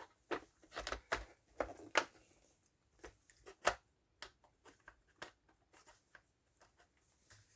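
Light, irregular clicks and taps of chainsaw parts being handled and cleaned during air-filter work, a few sharper knocks in the first half, then fainter ticks.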